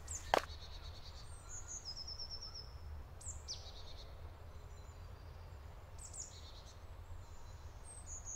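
Birds singing in woodland: a few short, high chirping phrases that fall in pitch, over a steady low rumble. A single sharp knock comes just after the start.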